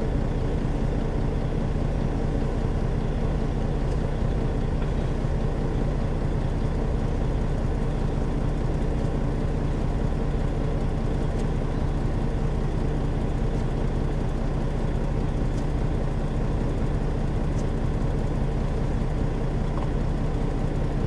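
Truck engine running steadily, a constant low hum heard from inside the cab.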